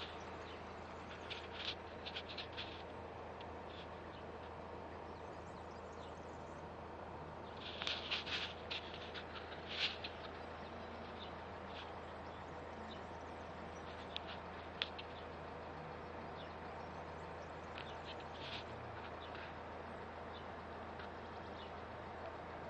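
Small birds chirping in short clusters of brief high notes, loudest around the middle, over a faint steady low hum.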